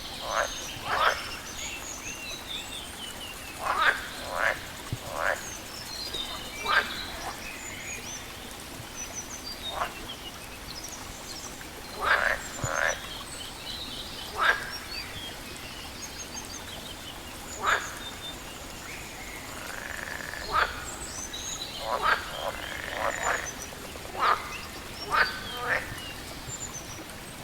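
Frogs croaking in short, loud calls that come irregularly every second or few, often two in quick succession. Faint high bird chirps sound above a steady background hiss.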